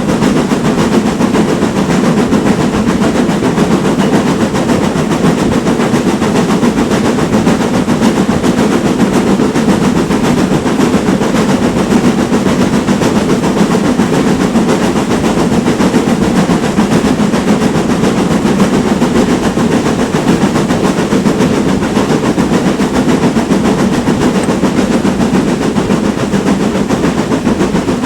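Steam train running at a steady pace: a loud, continuous rumble with fast rattling that does not change throughout.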